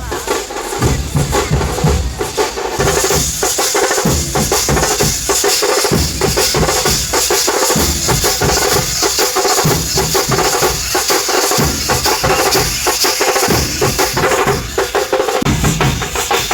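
Loud drum-led percussion music, dense and rapid, with a steady high shimmer joining about three seconds in.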